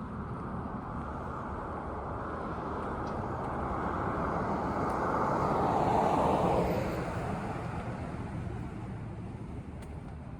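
A car passing along a suburban street: its tyre and engine noise swells over about six seconds, peaks, then drops in pitch and fades.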